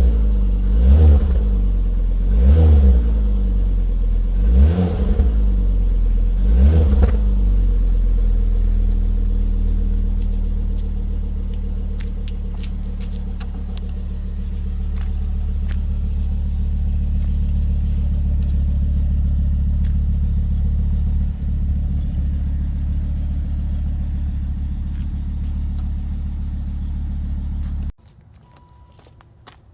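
2009 Volvo C30 T5's turbocharged 2.5-litre five-cylinder heard through its exhaust: five quick revs about every two seconds, then a steady idle. The engine is switched off near the end.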